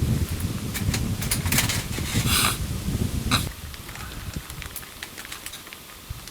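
Wood campfire crackling with scattered sharp pops, under a low rumble of wind on the microphone that drops away about three and a half seconds in. A few short rustles come in the first half.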